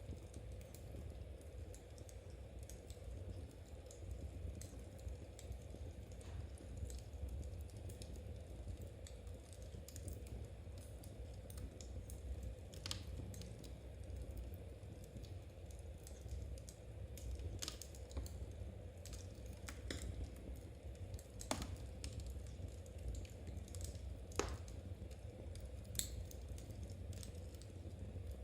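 Knitting needles clicking softly and irregularly as stitches are worked. A few sharper, louder pops come from a wood fire crackling, over a steady low rumble.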